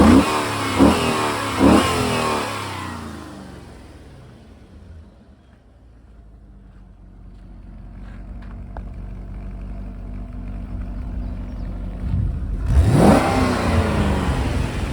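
A 2008 Corvette LS3 6.2-litre V8 revved in three quick blips, then dropping back to a steady idle for several seconds. Another rev rises and falls near the end.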